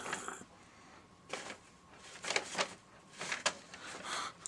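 Paper bag puppet being handled, rustling and crinkling in several short bursts about a second apart.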